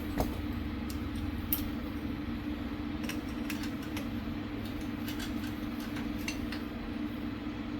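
Scattered light metal clinks and ticks of hand tools and small parts being handled over a steady low hum.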